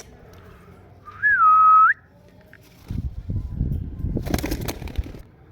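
A single clear whistle about a second in: it rises, holds a steady pitch, then rises again at the end. It is followed by about two seconds of rustling and scuffling.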